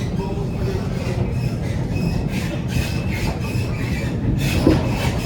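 Waratah A set electric train running on the track, heard from inside the carriage: a steady low rumble of wheels on rail with a repeated rattling clatter about three times a second and faint thin wheel squeal tones.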